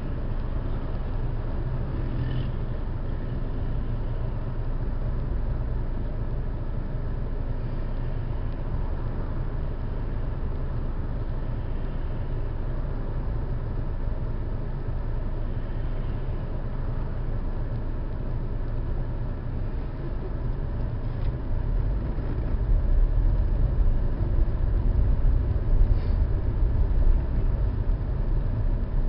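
Steady low rumble of a moving car's engine and road noise, heard from inside the car, getting louder about two-thirds of the way through, with a few faint ticks.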